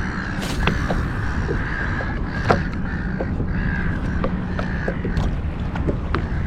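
A flock of seagulls calling continuously over a feeding frenzy of baitfish and salmon, with many short sharp splashes and ticks and a steady low rumble of wind and water.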